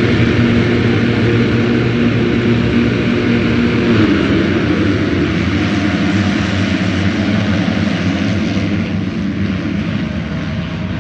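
Engines of 250-class motocross bikes racing, running hard at high revs. The engine note holds steady for the first few seconds, then turns busier and shifts in pitch.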